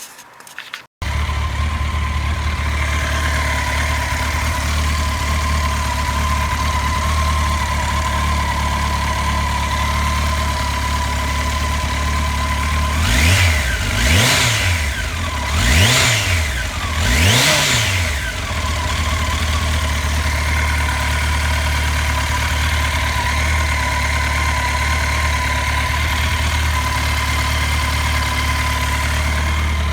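Honda CBR1100XX Blackbird's inline-four engine idling steadily, blipped up and back down four times about halfway through, run after its cam chain tensioner has been replaced.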